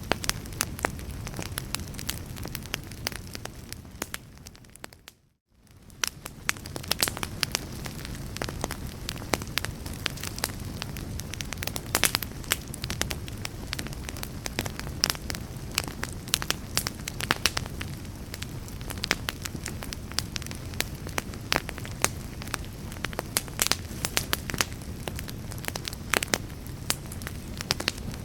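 Wood fire crackling, with frequent sharp pops and snaps over a low, steady rumble of burning. About five seconds in, the sound fades down to near silence and then swells back up.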